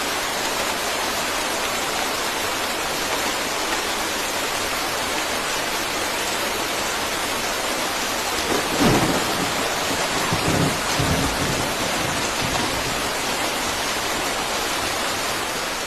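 Steady heavy rain hissing, with a low roll of thunder about halfway through that swells twice and dies away.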